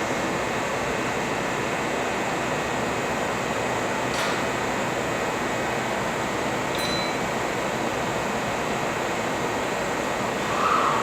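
Steady whir of a train standing at a station platform, its air conditioning and auxiliary machinery running. A click comes about four seconds in and a short high beep near seven seconds.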